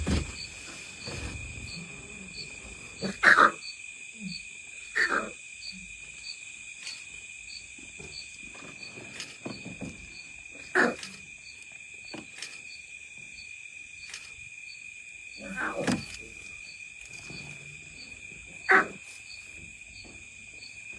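Lion cubs giving several short, high calls, spaced a few seconds apart, over insects chirping steadily in the background.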